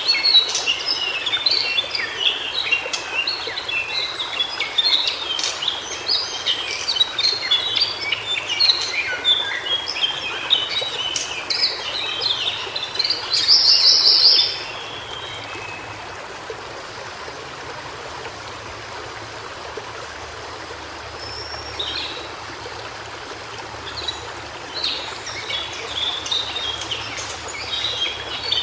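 White-browed shortwing singing a fast, jumbled song of short high notes for about fourteen seconds, ending in a louder, higher trill. After a pause of several seconds with only a steady background hiss, the song picks up again near the end.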